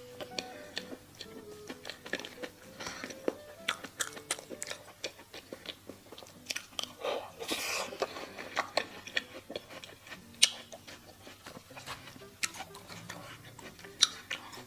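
Close-miked eating: a person biting and chewing, with many small wet clicks and one longer, louder crunchy stretch about halfway through.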